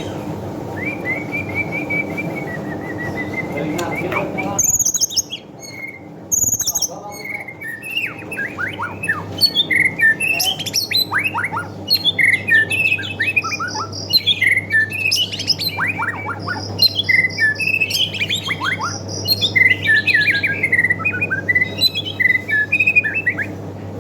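White-rumped shama (murai batu) singing: a long, steady whistled note near the start, then a dense, varied run of quick whistled phrases full of fast downward sweeps and chipping notes.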